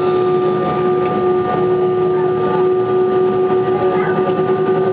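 Airbus A320 jet engines running: a steady, loud rush of noise with several constant humming and whining tones that hold at the same pitch.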